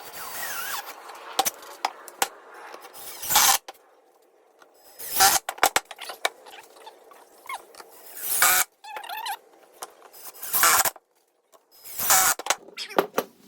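Power drill driving screws into wood in short bursts, about six times with pauses between them.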